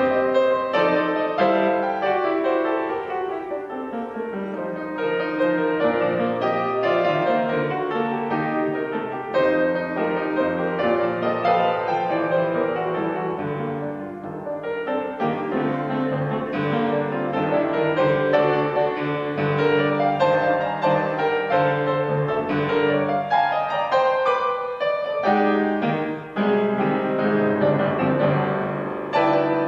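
Piano music: a keyboard playing chords and melody without singing.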